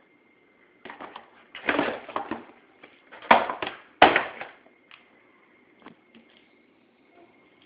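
A series of short knocks and scrapes, as of objects being handled and banged, clustered between about one and four and a half seconds in, over a faint steady high tone.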